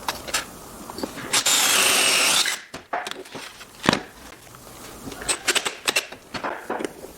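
A power drill runs for about a second, boring a hole in wood. Scattered clicks and knocks of tools and the workpiece being handled come before and after it.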